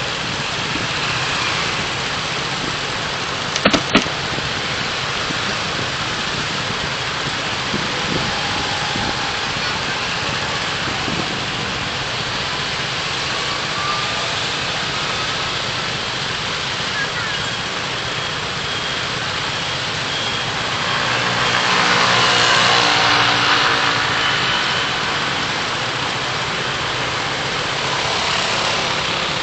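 Steady road and traffic noise from a car driving in city traffic, picked up by its dashcam. Two sharp clicks come about four seconds in, and a passing vehicle swells louder and fades about two-thirds of the way through.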